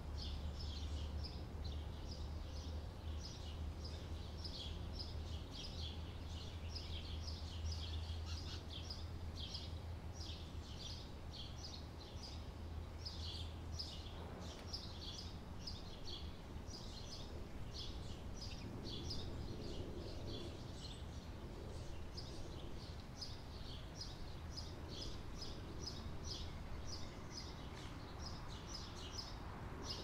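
Small birds chirping quickly and repeatedly, a steady stream of short high chirps, over a low steady hum that fades out about halfway through.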